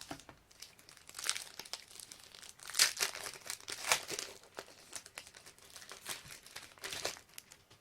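Wrapper of a 2014-15 Panini Prestige basketball card pack crinkling and tearing as it is ripped open and handled, in irregular bursts of crackling.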